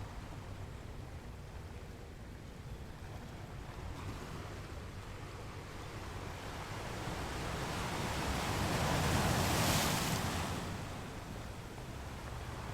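Ocean waves washing onto a beach: a steady wash of surf, with one wave swelling up, breaking loudest about three-quarters of the way through, then fading.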